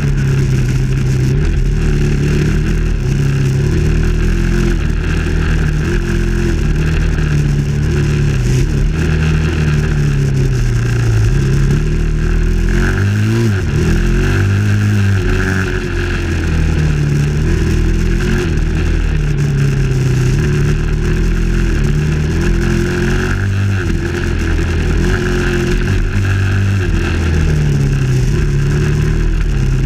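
Dirt bike engine running under load, heard from the rider's position, its revs rising and falling over and over as the throttle opens and closes.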